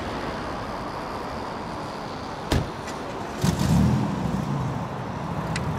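Street noise with a car engine: a single sharp knock about two and a half seconds in, then a car engine comes in loudly about a second later and keeps running with a steady low hum.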